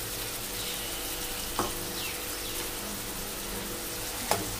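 Chopped onion, tomato and crushed garlic sizzling steadily in hot oil in a kadhai, with a single clack about one and a half seconds in. Near the end a spoon starts stirring, clattering against the pan.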